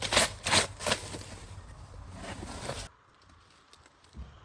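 Rapid rustling and scraping of dry leaves and litter being handled in a long-unused car, a quick run of strokes at first and then a rougher steady rustle that cuts off abruptly about three seconds in.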